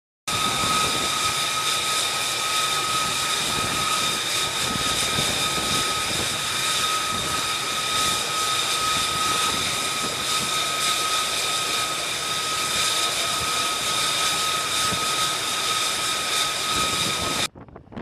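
Jet aircraft engine running steadily: a loud rush of noise with a constant high turbine whine held at one pitch. It starts abruptly after a moment of silence and cuts off suddenly near the end.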